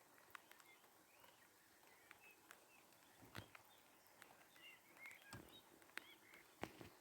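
Faint birds chirping: short, scattered chirps and whistles, with a few sharp clicks and a couple of soft low thumps.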